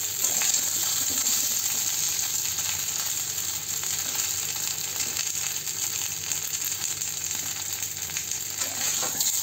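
Steamed rice-flour pitha sizzling steadily as they shallow-fry in hot mustard oil with mustard seeds in a kadhai, with a flat spatula now and then scraping and turning them in the pan.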